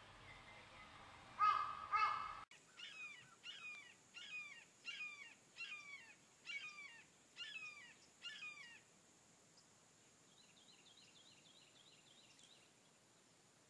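Bird calls from wild bird recordings. Two loud calls come first, then after a sudden change a series of about nine repeated downward-sweeping notes, evenly spaced. Faint, quick twittering follows near the end.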